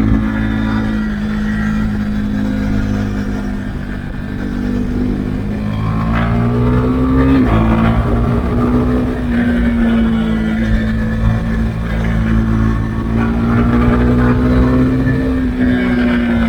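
Husqvarna Svartpilen 401's single-cylinder engine running through an Akrapovic exhaust with the dB-killer removed, pulling steadily under load as the bike rides. The note climbs gradually, then falls sharply with an upshift about seven and a half seconds in.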